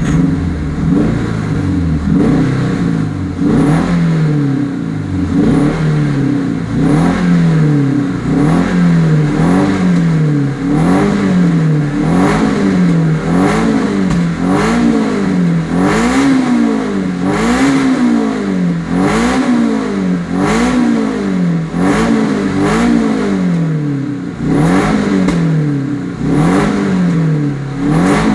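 Supercharged Toyota 2ZZ-GZE 1.8-litre four-cylinder engine revved up and down over and over, rising and falling in pitch about once every second or so, during ECU mapping.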